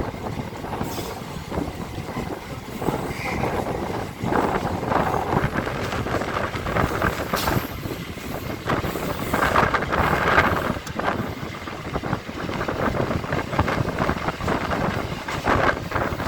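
EMU local train running at speed, heard from on board: wheels rattling and clattering over the rail joints along with steady running noise. The sound swells louder for a couple of seconds around the middle.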